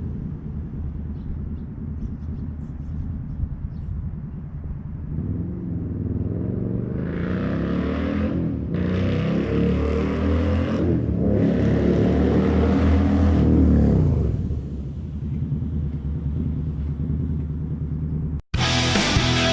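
2020 Indian Scout's V-twin running through Dean Speed Rampage slip-on exhausts with the baffles out. It rumbles low, then pulls hard past with rising pitch and two brief dips like gear shifts, and settles back to a rumble. Near the end it cuts off abruptly and rock music begins.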